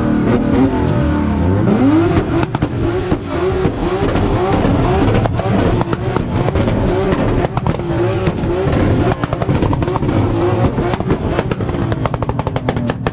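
Car engine revved hard over and over, its pitch rising and falling in quick repeated sweeps, with many sharp exhaust pops and crackles throughout.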